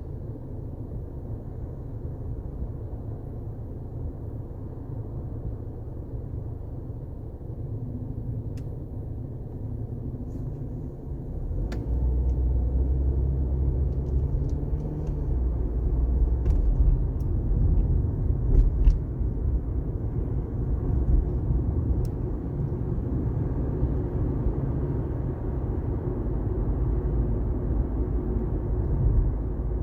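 Car driving on a wet highway: steady low road and tyre rumble, which gets louder about twelve seconds in, with a few faint ticks.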